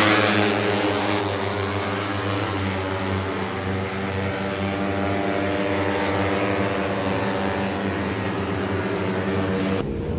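Racing motorcycle engines running at a steady pitch on the start grid, a dense hum of many harmonics; a loud rush at the very start fades over the first second, and the sound changes abruptly just before the end.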